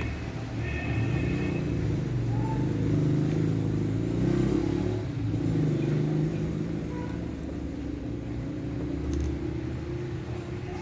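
Low, continuous engine rumble whose pitch drifts slowly up and down.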